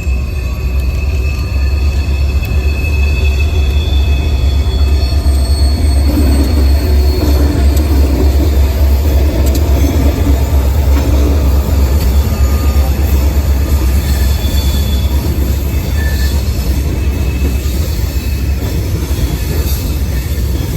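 A train rolling past with a heavy, steady low rumble, thin high-pitched wheel squeal and scattered clicks from the wheels on the rails.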